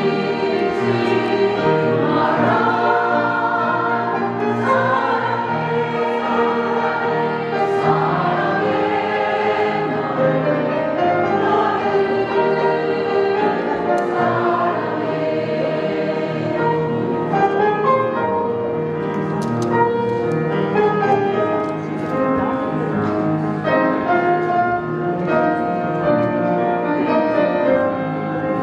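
Women's vocal ensemble singing a song together in harmony, several voices holding sustained notes.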